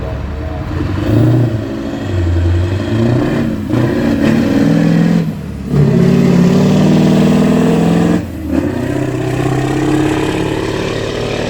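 Scania R620's V8 diesel, tuned to about 1000 hp, pulling hard under a heavy load of about 46 tonnes up a steep hill. The engine note climbs and is cut by three brief breaks, about 3.5, 5.5 and 8 seconds in.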